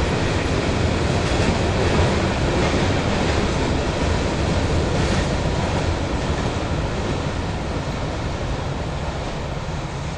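Freight train rolling past, its cars' wheels running on the rails in a steady, dense rumble that fades over the last few seconds as the end of the train goes by.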